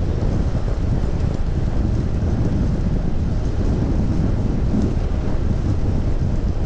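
Steady wind rush buffeting the microphone of a chest-mounted action camera on a moving bicycle: a low, unbroken rumble.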